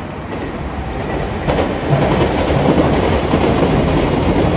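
A Shinkansen and a silver JR Kyushu commuter electric train passing at the same time on neighbouring tracks, with wheel rumble and rail clatter. The sound swells sharply about a second and a half in, as the trains come closest, and stays loud.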